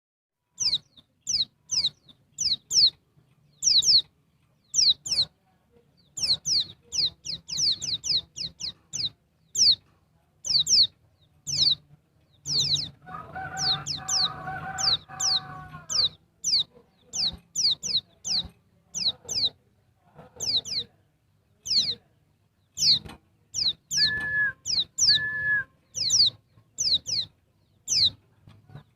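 Female pleci (white-eye) calling: many short, sharply falling high chirps, singly and in quick runs of two to four. About halfway through a lower, steadier sound lasts about three seconds, and near the end come two short level notes.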